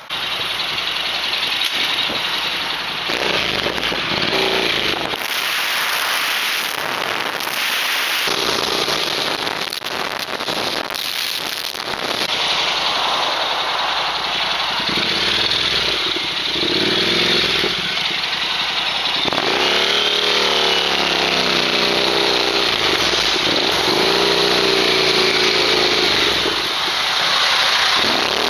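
Heavy wind noise buffeting an action-camera microphone, with a vehicle engine heard under it several times, its pitch rising and falling.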